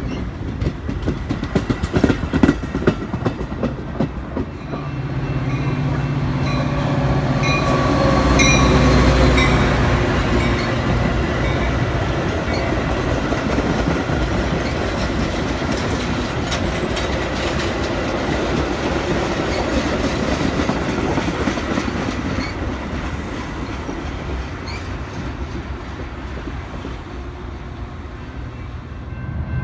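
Train on the move: wheels clicking over rail joints, then about five seconds in a louder, steady rumble of wheels and a diesel drone that is loudest about nine seconds in and slowly eases off near the end.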